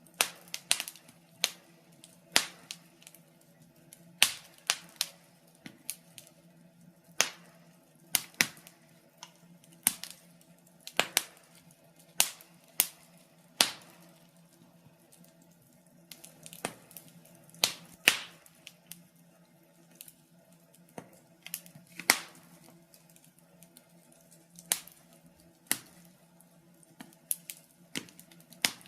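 Wood fire crackling in a fireplace: sharp, irregular pops and snaps, roughly one or two a second, over a faint steady low hum.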